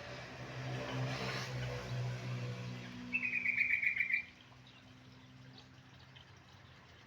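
A trucuk (yellow-vented bulbul) gives one fast, trilled phrase of quick, even notes lasting about a second, a few seconds in. It is preceded by a low hum and a rushing, water-like noise.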